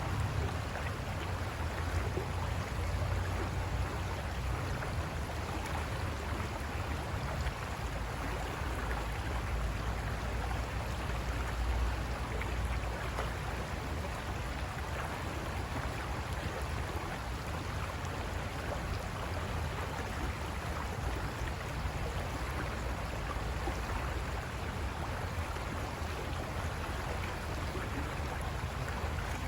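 River water rushing and splashing over rocks in a steady, even wash, with a low rumble beneath it.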